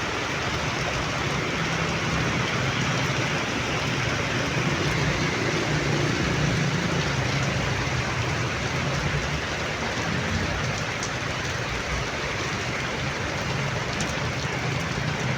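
Heavy rain pouring down steadily, with a vehicle engine humming low underneath, louder in the first half.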